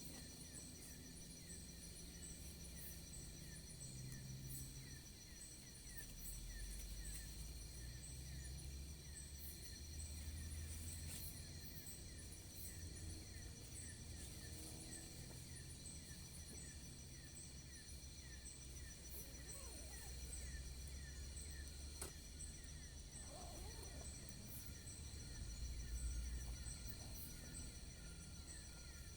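Faint outdoor ambience of insects chirping steadily in several high, evenly pulsing trills over a low background rumble, with a few faint clicks.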